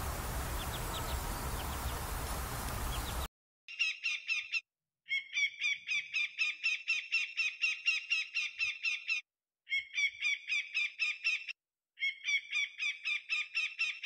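Noisy outdoor ambience with faint, short high peeps, which cuts off about three seconds in. After a brief silence a bird calls in rapid, evenly repeated notes, about five a second, in phrases of one to four seconds with short pauses.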